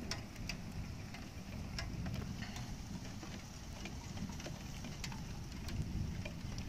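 Large raindrops striking a hard surface close by, heard as scattered sharp ticks, a few each second, over a steady low rush of rain. No hailstones are seen bouncing, so the ticks are taken for big raindrops rather than hail at the start of a thunderstorm downpour.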